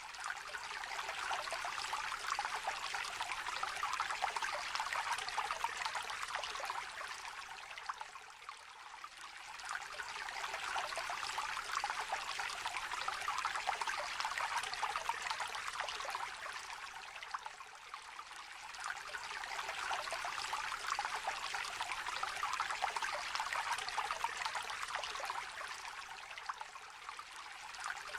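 Small river trickling and babbling in a steady rush of water, gently swelling and easing roughly every nine seconds.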